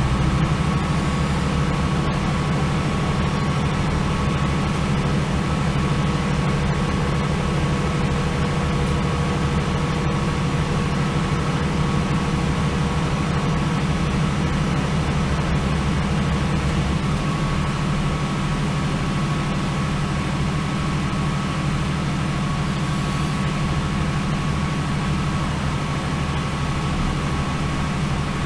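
Northern Ireland Railways diesel train running steadily: a constant low engine drone with a thin, steady high-pitched hum over it.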